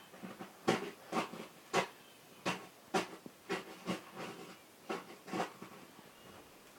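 Snow crunching in a run of short crunches, about two a second, that stop about five and a half seconds in.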